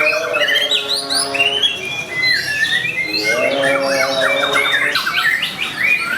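White-rumped shamas singing: rapid, overlapping whistled phrases that rise and fall in quick succession.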